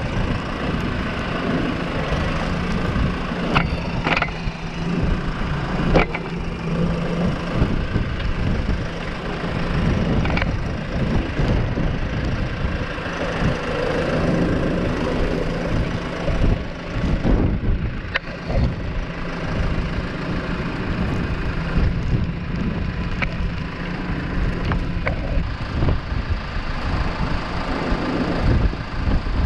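New Holland T5 tractor's diesel engine running steadily, with a few sharp knocks scattered through.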